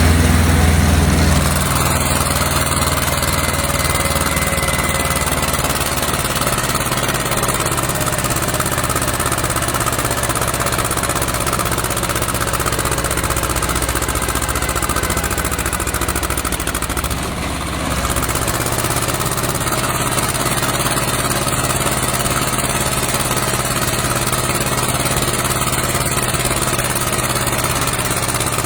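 Tractor engine running steadily, with a brief dip in level about two-thirds of the way through.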